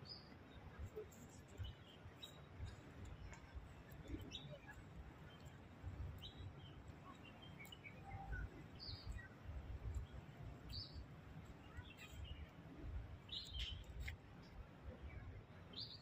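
Small birds giving short, high chirps every second or two at irregular intervals, over a faint low rumble.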